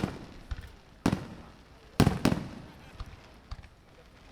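Aerial firework shells bursting overhead: four loud booms about a second apart, each trailing off in a rolling rumble, with fainter pops and cracks between them.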